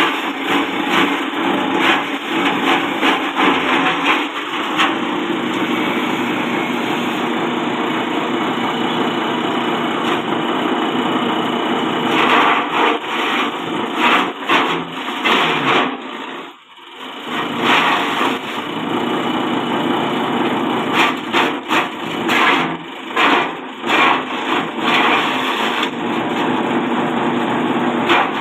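Small electric-motor forage chopper running, its blades chopping plant stalks fed into it with rapid, irregular crackling cuts over the steady machine noise. The sound drops away briefly about sixteen seconds in, then resumes.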